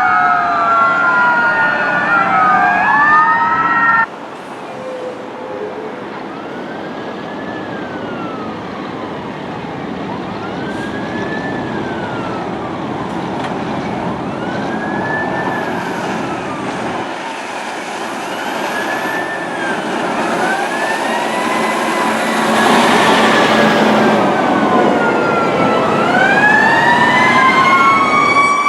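Fire truck sirens wailing on a response. There is an abrupt cut about four seconds in. After it, sirens rise and fall in repeated sweeps, growing steadily louder as the apparatus approaches, and a strong rising wail comes near the end.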